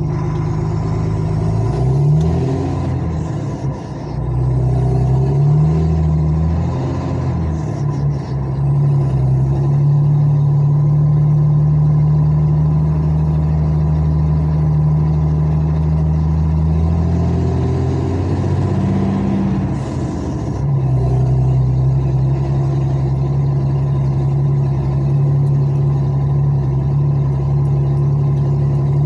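Heavy vehicle's diesel engine running steadily with a deep hum. Its pitch rises and falls a few times in the first several seconds and again about two-thirds of the way through, then holds steady.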